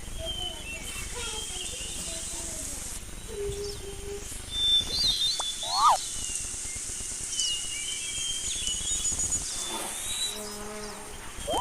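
A steady, high-pitched insect chorus of crickets or cicadas, with short chirps and whistles scattered over it, loudest around the middle.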